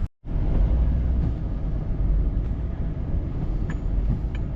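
Steady low rumble of a vehicle running, with noise spread evenly over it and no distinct events.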